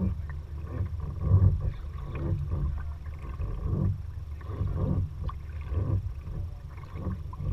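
Kayak paddle strokes dipping and splashing about once a second, over a steady low rumble.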